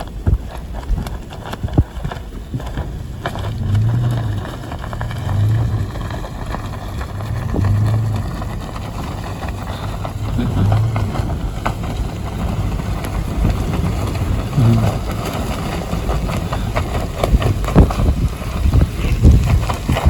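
Rainstorm wind gusting hard against the microphone, with rain crackling through it and short low hums swelling every two to three seconds.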